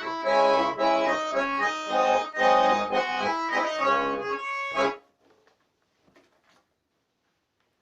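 Russian garmon (button accordion) playing melody over chords, stopping abruptly about five seconds in, followed by near silence with a few faint rustles.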